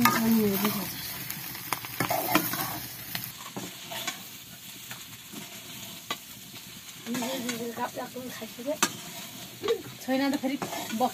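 Cubed potatoes sizzling in a hot iron wok while a metal spatula scrapes and stirs them; the sizzle cuts off suddenly about three seconds in. Later come a few short vocal sounds over a quieter background.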